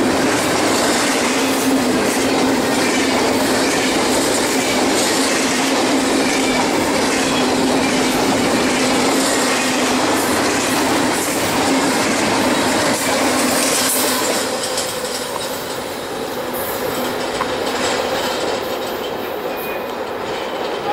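BNSF double-stack intermodal freight train passing at speed: a steady loud rumble and rattle of steel wheels on the rails with clickety-clack from the wheels. The noise drops off about two-thirds of the way through as the last cars go by.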